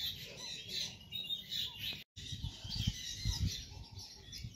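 Birds chirping in the background, with low rumbling thumps after a brief break in the sound about two seconds in.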